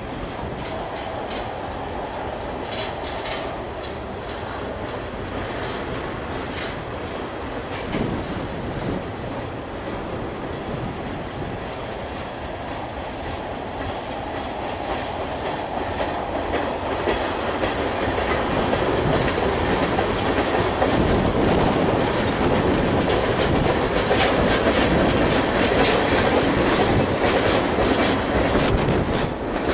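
Freight train of tank cars rolling past, steel wheels clicking over rail joints. It gets louder about halfway through.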